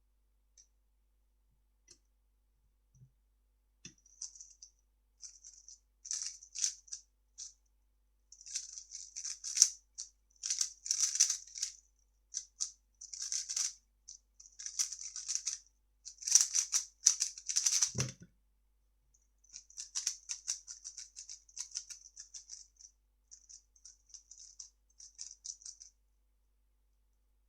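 3x3 speedcube being turned fast by hand: rapid runs of clicking, rattling layer turns in quick bursts with brief pauses, and a single low thump about 18 seconds in.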